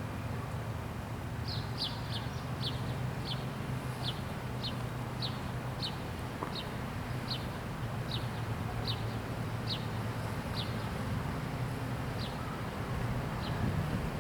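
A bird calling a long series of short, high, falling chirps, about one to two a second, that thin out toward the end, over a steady low hum.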